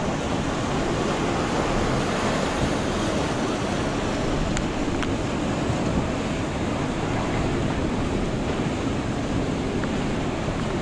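Steady rushing noise, like wind blowing across a microphone, unchanging throughout, with two faint ticks about four and a half and five seconds in.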